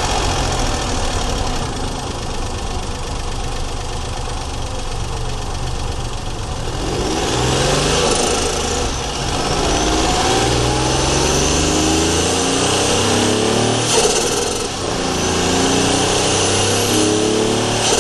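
Daihatsu Charade GTti's turbocharged 1.0-litre three-cylinder engine, heard from inside the engine bay: running evenly at first, then pulling hard from about seven seconds in, its pitch climbing through the gears with a break for a gear change near the two-thirds mark. A high turbo whistle rises and falls over the engine under boost.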